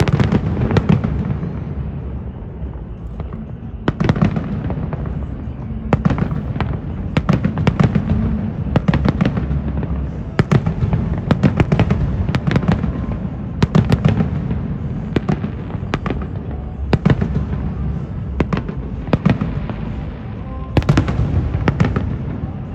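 Aerial fireworks going off in a rapid, irregular string of bangs and pops over a continuous low rumble and crackle, with denser volleys about four seconds in, through the middle, and near the end.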